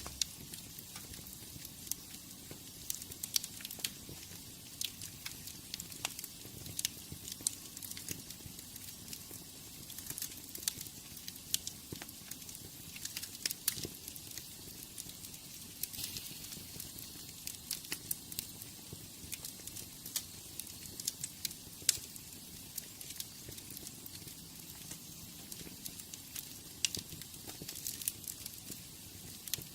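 Wood fire burning in a fireplace, crackling steadily with irregular sharp pops and snaps over a soft hiss.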